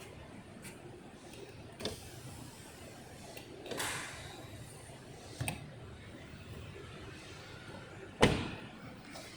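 A few separate knocks and thuds with a short scraping swish in the middle; the loudest thud comes near the end.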